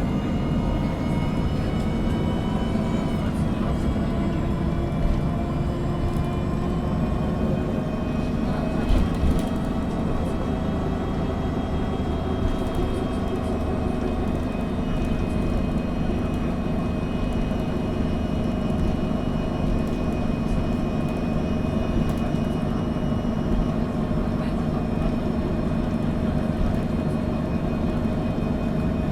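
Interior of a MAN NG 313 CNG articulated city bus under way: the natural-gas engine and drivetrain run with a steady low rumble and a whine of tones above it. The pitch drops slightly a few seconds in, then holds steady, with one brief knock near the middle.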